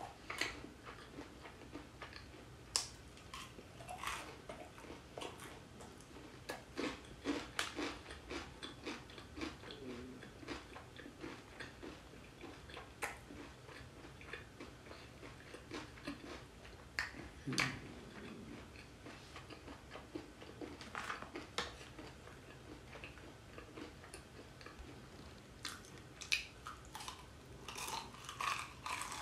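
Close chewing and biting of crispy boneless fried chicken: soft, irregular crunches and small wet clicks, a little louder and busier near the end.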